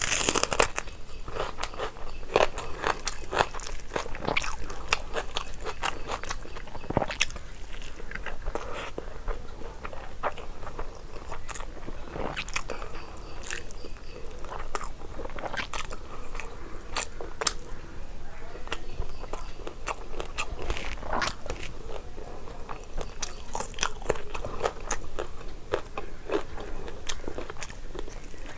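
A person eating biryani close to the microphone: continuous chewing with many short, irregular crunches and clicks.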